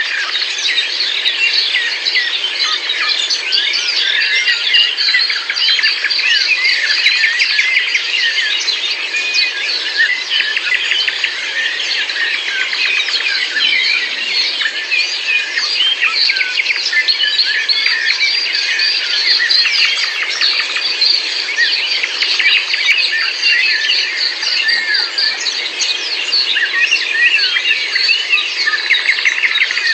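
A dense, continuous chorus of many small birds chirping and twittering at once, with countless short, quick chirps overlapping throughout.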